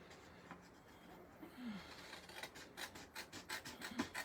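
Cardstock being trimmed and handled: faint, crisp scratches and small clicks of paper, coming in a quick irregular run about halfway through.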